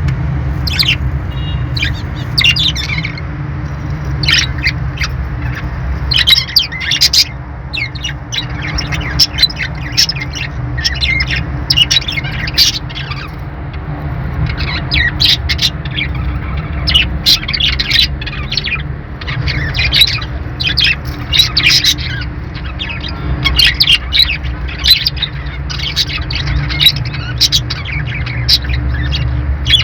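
Budgies (parakeets) chirping and squawking in quick, irregular bursts of short, high calls, over a steady low hum.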